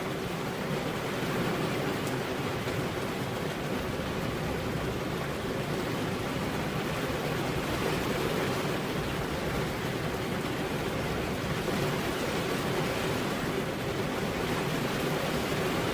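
Steady heavy rain, an even hiss with no separate drops or thunder standing out.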